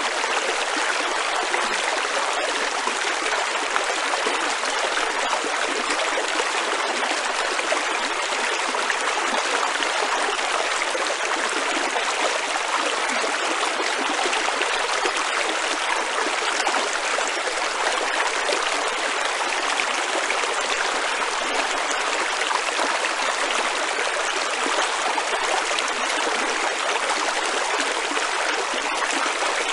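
Water of a stream rushing over rocks, a steady, even flow with no change throughout.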